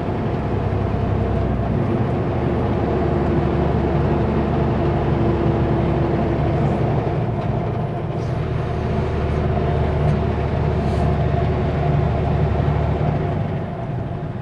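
Kenworth W900L semi truck's diesel engine running steadily under way, heard inside the cab, with a constant low rumble and road noise.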